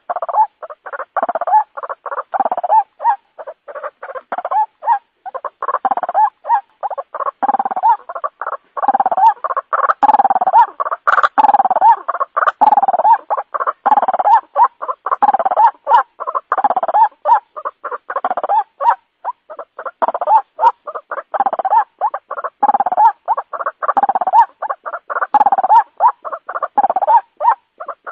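White-breasted waterhen calling: a loud, unbroken run of short, rapidly repeated notes, several a second.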